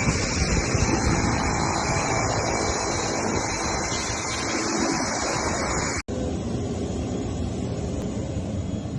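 Turbofan engines of a Bombardier Challenger 601 business jet running, a steady rushing jet noise. The sound cuts off abruptly about six seconds in and resumes duller.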